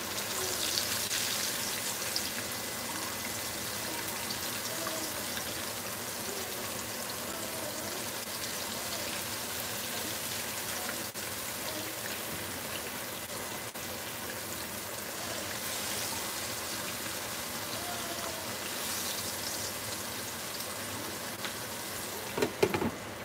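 Thick pork chops frying slowly in a skillet of oil: a steady sizzle that swells now and then. Near the end, a few quick clanks of metal tongs and a lid against the pan.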